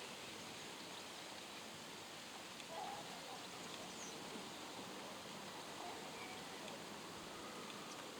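Faint, steady outdoor background noise, an even hiss, with a few faint, brief sounds of a bird or a distant voice here and there.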